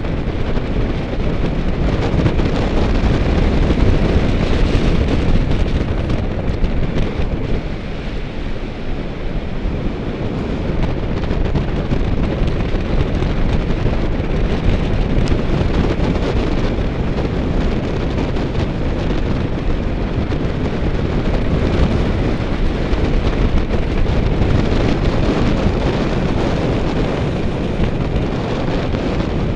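Wind buffeting the microphone of a camera on a road bike at riding speed: a loud, steady rumble.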